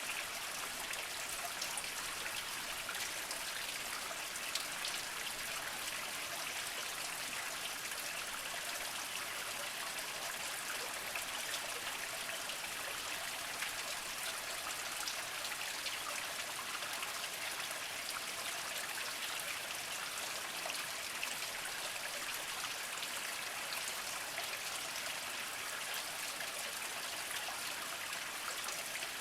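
Small spring trickling and dripping over mossy rocks, a steady, fairly high water hiss with many small drops.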